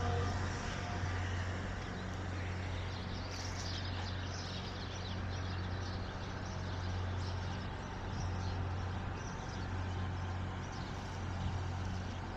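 Outdoor ambience after the call to prayer: a steady low hum with a traffic-like background wash and a few faint bird chirps.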